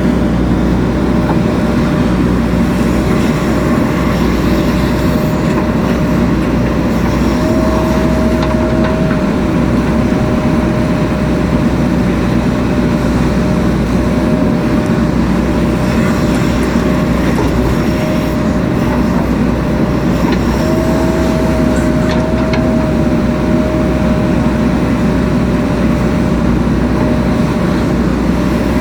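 JCB 3DX Super backhoe loader's diesel engine running steadily under load, with a steady high whine that rises briefly in pitch twice, about a quarter of the way in and again about two-thirds of the way through.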